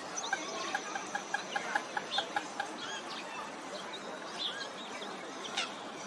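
Birds calling: a quick run of about a dozen short, evenly spaced notes, some five a second, over the first two and a half seconds, with scattered high chirps throughout.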